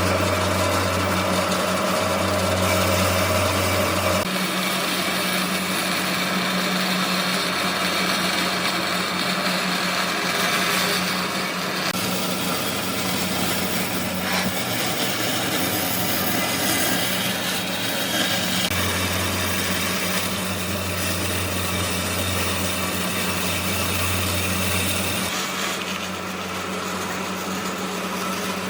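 Woodworking machinery running steadily: a constant motor hum with a dense rushing noise over it, and a deeper drone that drops out about four seconds in and comes back for several seconds in the second half.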